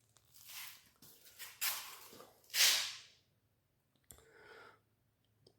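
A person breathing close to the microphone: four short, noisy puffs with near silence between them, the third the loudest.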